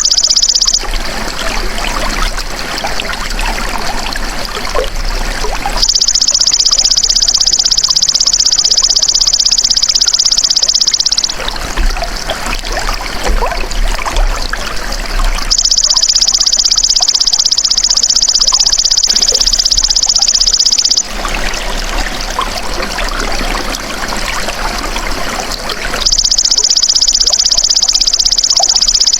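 Belalang emas (golden grasshopper) calling in long, steady, high-pitched buzzing trills of about five seconds each, three times, over continuous trickling water that is heard on its own in the gaps.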